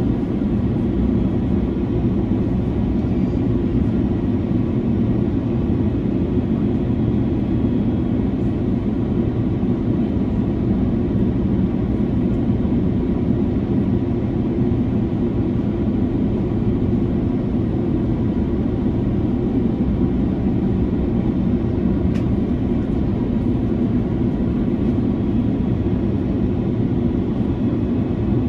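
Airbus A330-300 airliner at cruise heard from inside the cabin: a steady, even roar of engines and airflow, deepest and loudest at the low end, with a faint steady hum above it.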